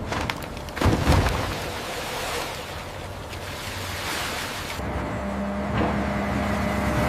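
A loud crack about a second in, after a few small clicks, then a steady rushing wind-like noise. From about five seconds a low mechanical hum with a steady droning tone comes in.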